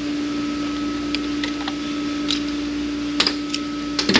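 Short metallic clicks and clinks of transmission parts being handled on the bench, a few scattered ones and then a louder cluster near the end, over a steady hum.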